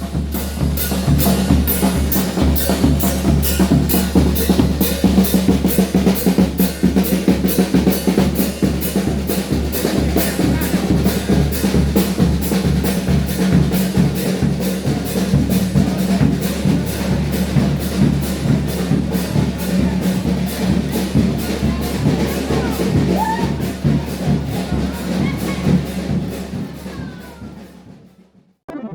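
Procession drum band playing: bass and snare drums beating a fast, even rhythm over a steady low drone, fading out near the end.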